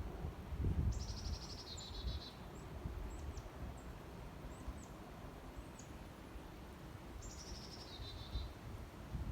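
A songbird singing a fast trill that falls in pitch, twice, about a second in and again near the end, with short high chirps in between, over a low rumble of wind on the microphone.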